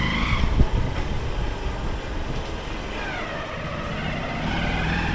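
Motorcycle on the move: a steady low engine and road rumble, with a higher whine that falls about three seconds in and rises again near the end as the revs change.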